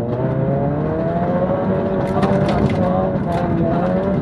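Ford Focus V1600 rally car's 1.6-litre engine at full effort, heard from inside the cabin, its note climbing and dipping with throttle and gear changes.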